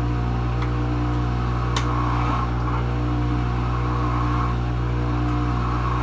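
Kenmore Ultra Wash 3 dishwasher running mid-cycle: the circulation pump motor hums steadily while water sprays inside the tub, the swish swelling and fading about once a second. A single sharp click comes about two seconds in.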